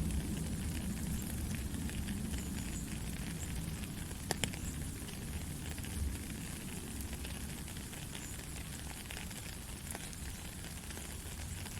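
Steady rain falling, an even hiss with scattered small drop ticks and one sharper tap about four seconds in.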